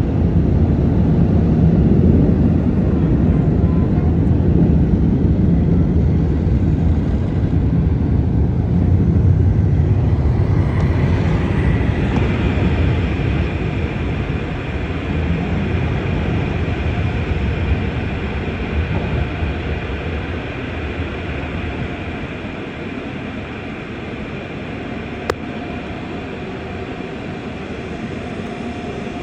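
Automatic car wash machinery running: a heavy low rumble that eases off after about ten seconds, giving way to a steadier sound with a high whine. A single click near the end.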